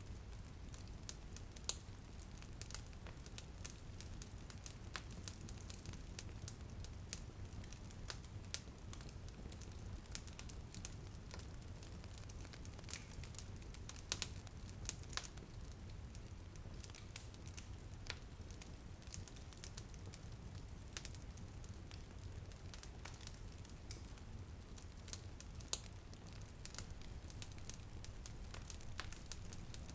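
Fireplace fire crackling, with irregular sharp pops and snaps over a steady low rumble. A faint patter of light drizzle on a window sits underneath.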